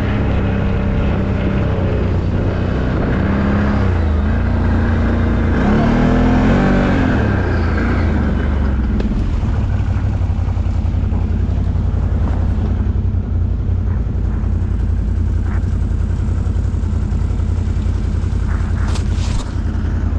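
ATV engine running under load, revving up and back down a few seconds in, then settling to a steady low drone.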